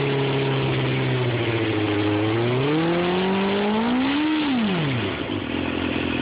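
2005 Suzuki GSX-R600's inline-four engine running steadily at raised revs, then revved up about three seconds in and let fall back to idle within about two seconds.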